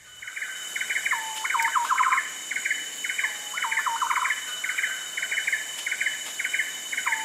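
Forest birds calling in fast clusters of short, high notes, with a lower phrase that dips and then runs on in quick notes every two to three seconds, over a steady high drone of insects.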